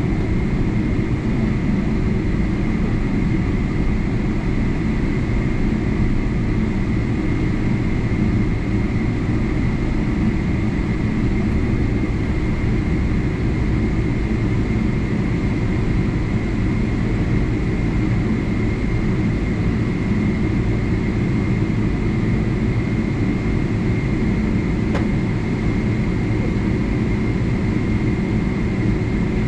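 Steady cabin noise inside a Boeing 777-300 airliner: a low, even rumble of engines and air conditioning with a thin steady whine above it.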